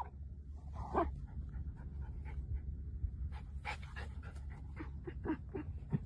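A dog panting in quick, short breaths, coming faster and closer together in the second half, over a steady low hum.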